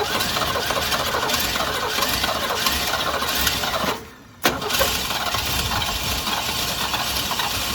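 The starter cranks the 1966 Ford Mustang's 200 cubic-inch straight-six. The engine is slightly flooded after raw gas was poured down the carburetor. The cranking stops for a moment about halfway through, then starts again with a sharp click and keeps going.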